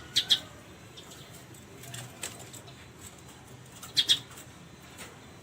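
A caged derkuku (spotted dove) flapping its wings in two short double beats, one at the start and one about four seconds later.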